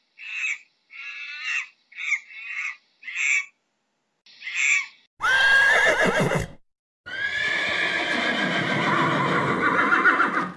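A string of short high-pitched monkey calls over the first five seconds, then horses neighing: a whinny of about a second, and after a brief gap a long one of about three and a half seconds.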